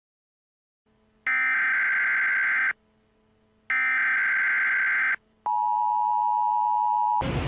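Electronic telephone-style tones over a silent track: two identical ringing tones, each about a second and a half long and a second apart, then a steady lower tone. Near the end it cuts off suddenly into street traffic noise.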